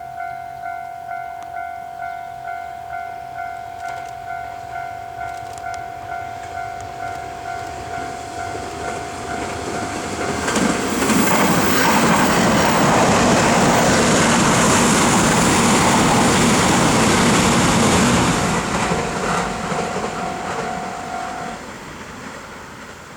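A Japanese level-crossing warning bell clangs about twice a second. A train approaches, passes close by with a loud rumble and wheel noise for several seconds, then fades away. The bell stops near the end.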